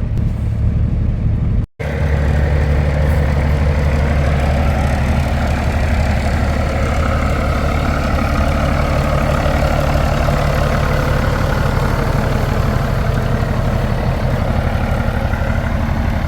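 Peterbilt semi truck's diesel engine running steadily, with a low, even drone. The sound cuts out for a moment about two seconds in.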